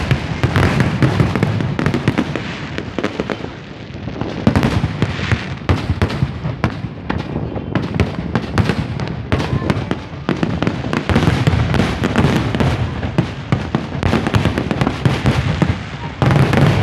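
Fireworks going off in rapid succession: a dense, unbroken barrage of bangs and crackles that swells into louder volleys several times.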